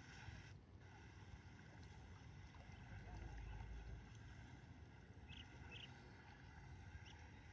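Near-silent outdoor ambience: wind rumbling on the microphone under a steady faint high hiss, with a few faint short chirps about five and a half seconds in.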